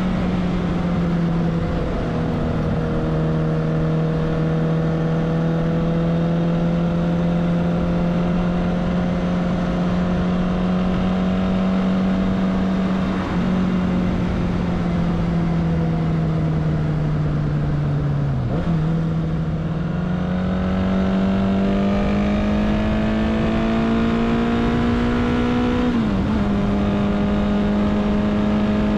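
Kawasaki GT 550 motorcycle's air-cooled inline-four engine running under way at steady road speed, its note easing slightly over the first half. About two-thirds through the pitch dips sharply, as at a gear change, then climbs steadily as the bike accelerates. It steps down once more near the end, as at an upshift.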